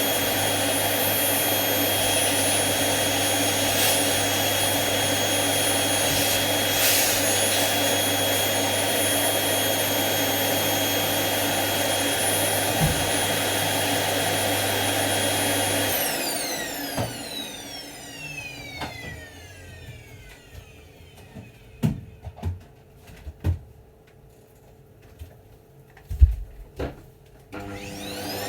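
Vacuum cleaner running steadily with a high motor whine, then switched off about halfway through: the whine falls in pitch as the motor winds down. A few knocks follow in the quieter stretch, and near the end it is switched on again, its whine rising as the motor spins up.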